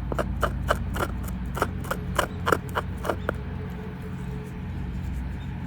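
Quick repeated scraping or rasping strokes, about four a second, stopping a little over three seconds in, over a steady low hum.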